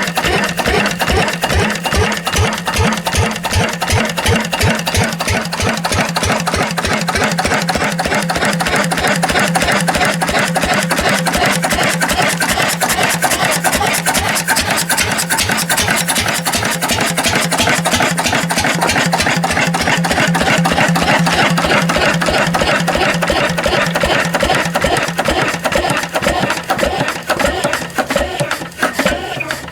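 Lister CS diesel stationary engine running steadily after restoration, a rapid even beat of firing knocks with a rattly mechanical clatter over it.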